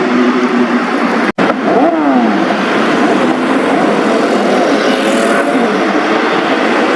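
Several superbike engines revving and passing, their exhaust notes rising and falling in pitch over one another. The sound drops out for a split second about a second in.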